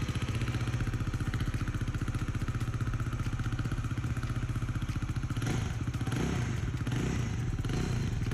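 Bajaj Dominar 400's single-cylinder engine idling with an even, rapid beat; from about five seconds in, a few short throttle blips raise the revs and let them fall back.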